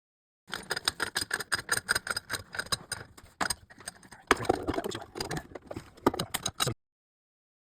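Rapid clicking and rattling of hand tools and fittings being worked, several sharp clicks a second with a denser clatter in the middle. It starts about half a second in and cuts off abruptly near the end.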